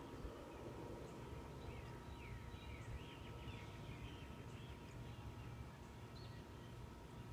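Faint outdoor birdsong: a run of quick chirps about two to three seconds in, with a few more later, over a low steady rumble.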